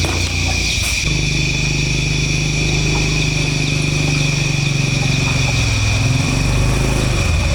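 A motorbike engine running steadily, its pitch shifting a few times as the speed changes. A steady high-pitched tone sounds above it throughout.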